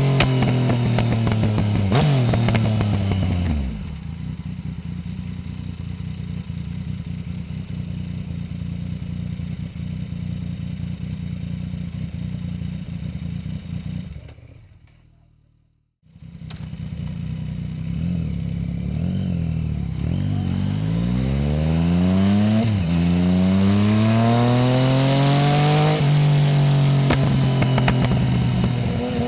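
Yamaha Tracer 900 GT's 847 cc three-cylinder engine through a full aftermarket exhaust without its dB-killer: it winds down in pitch as the bike slows, then runs at a low steady idle for about ten seconds. The sound briefly fades out and back in, then the engine pulls hard up through several gears, the pitch rising and dropping at each shift, and settles to a steady cruise near the end.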